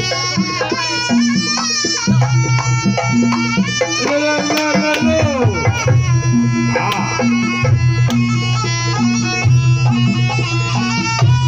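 Live traditional Javanese jaranan dance music: drums keeping a steady pulse under pitched percussion and a wavering, reedy melodic line.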